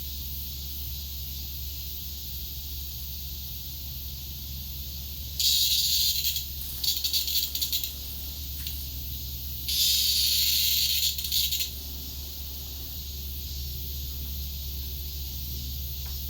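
A cicada giving harsh buzzing squawks in three bursts of one to two seconds, the middle one stuttering. It is the distress buzz of a cicada being handled by a cat.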